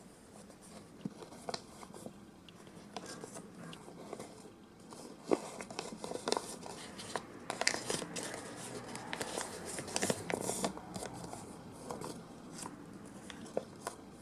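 Paper rustling and crinkling as a square of red-envelope paper is handled and folded into creases, with a run of sharper crackles around the middle.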